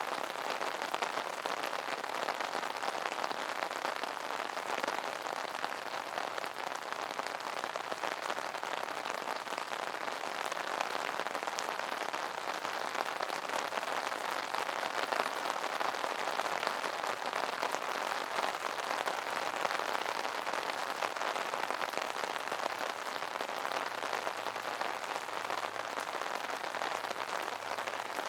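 Steady rain pattering on an umbrella, a dense even spatter of drops.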